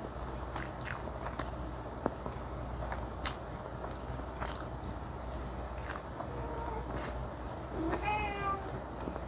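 Close-miked eating sounds of spicy mala xiang guo stir-fry: a steady run of wet chewing with soft clicks and smacks from biting. Near the end a brief meow-like pitched cry rises and falls.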